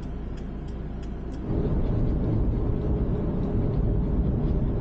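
Road and engine noise inside a moving van's cabin, a steady low rumble with light ticks about three a second. About a second and a half in it abruptly becomes louder and denser.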